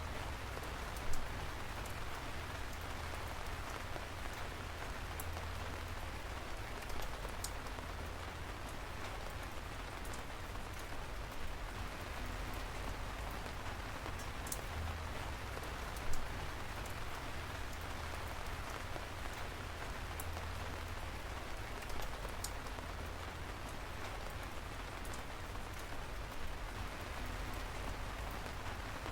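Steady rainfall: an even hiss with a low rumble underneath, and occasional sharp drips or tapping drops, the loudest about a second in and about sixteen seconds in.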